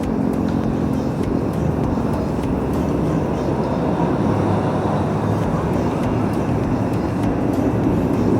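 Steady noise of heavy motor traffic on a busy multi-lane highway, with the hum of passing vehicles' engines rising and falling.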